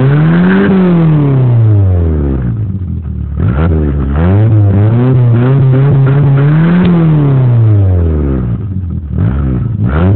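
Volkswagen Mk2 Jetta's inline-four engine revving up and down through its exhaust and muffler. The pitch climbs and falls away several times, holds steady for a couple of seconds in the middle, and drops low twice before rising again near the end.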